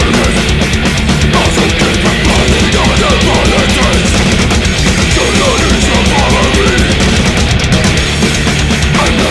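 Death/thrash metal recording playing loud and without let-up: distorted guitars over dense, rapid drumming.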